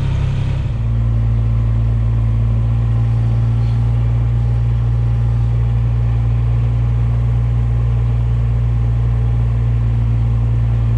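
Dually pickup truck's engine idling steadily, with a low hum that shifts and settles about a second in.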